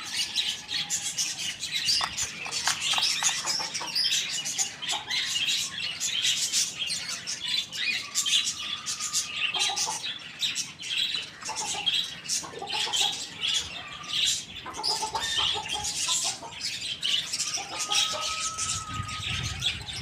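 A flock of birds chirping and chattering without a break, with a few longer, level whistled calls.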